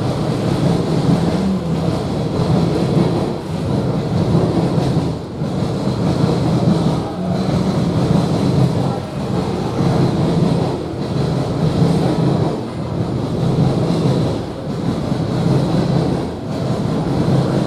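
A train passing by, with a steady, loud rumble of rolling rail cars.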